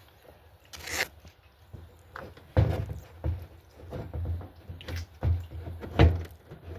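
Small gasoline generator engine being cranked for a cold start, turning over and firing in uneven bursts rather than settling into a steady run, with the tank nearly out of gas.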